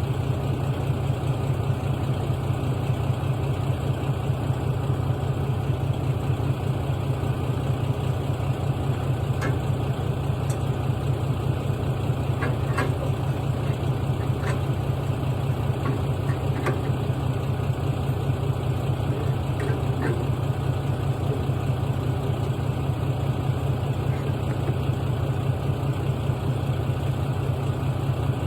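Log truck's diesel engine idling steadily, with a few faint sharp clicks in the middle.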